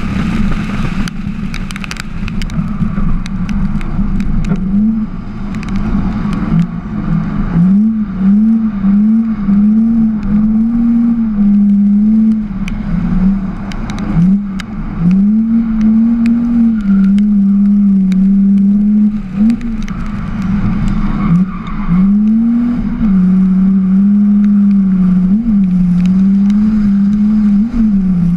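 Drift car's engine heard onboard, working hard: the revs repeatedly drop and climb quickly back up to hold high and steady as the throttle is worked through the slides. The first few seconds are mostly a noisy rush with crackles before the engine note comes through clearly.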